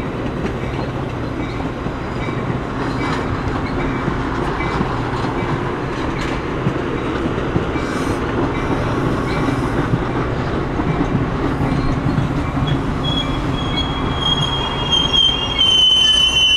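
Metra stainless-steel bilevel passenger cars rolling past on the rails with a steady rumble and wheel clatter. A high wheel squeal comes in near the end.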